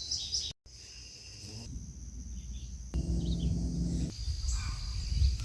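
Rural outdoor ambience: a steady high buzzing of insects such as crickets, with short bird chirps. A low steady hum comes in for about a second past the middle.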